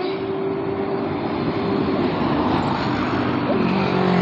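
Tata heavy truck's diesel engine running, growing louder toward the end as it comes closer or works harder.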